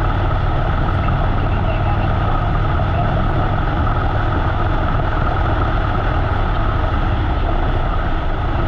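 Harley-Davidson V-twin engine running steadily while riding, a deep even rumble mixed with constant wind rush on the microphone.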